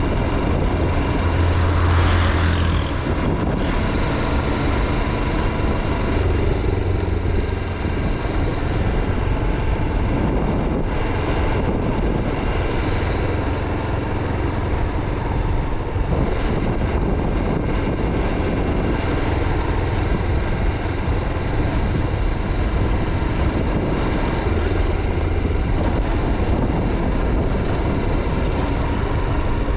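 Motorcycle running steadily while being ridden, engine and road noise continuous.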